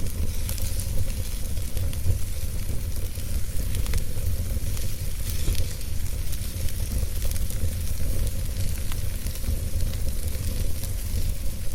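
Wood fire burning, with a low steady rumble and many small, irregular crackles and pops.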